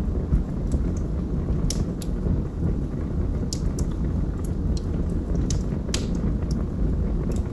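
Wood fire burning in a fireplace: a steady low rumble of flames with irregular sharp crackles and pops, about one a second.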